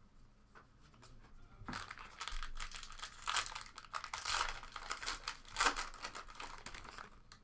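A foil trading-card pack wrapper being torn open and crinkled by hand, starting about a second and a half in and running in uneven crackling bursts until shortly before the end.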